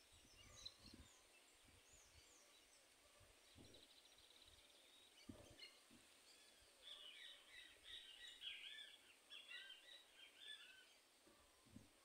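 Faint birdsong: several small birds chirping and calling, with a short trill about four seconds in and a busy run of calls in the second half.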